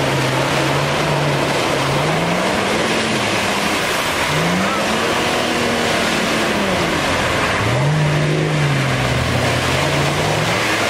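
Off-road 4x4's engine revving, its pitch rising and falling about three times over a steady rush of noise.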